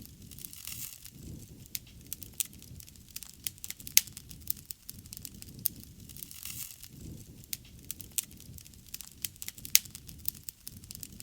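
Wood bonfire crackling: irregular sharp pops and snaps over a low, wavering rumble of flames, with a brief hiss about half a second in and again at about six and a half seconds. The loudest pops come about four seconds in and near the end.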